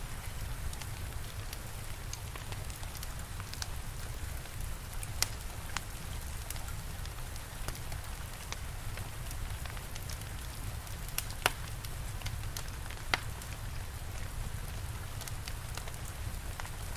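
Steady rain with a fire crackling: a constant hiss over a low rumble, broken by scattered sharp pops, three of them louder than the rest.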